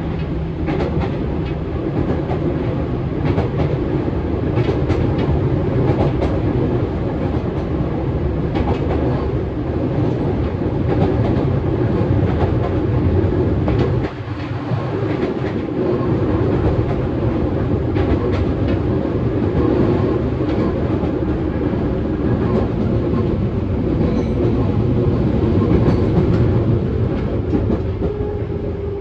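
Running noise inside the passenger car of a JR Central 211 series 5000 subseries electric train: a steady rumble of wheels and running gear, with rail-joint clickety-clack. The noise drops suddenly about halfway through, and a slightly falling tone comes in near the end.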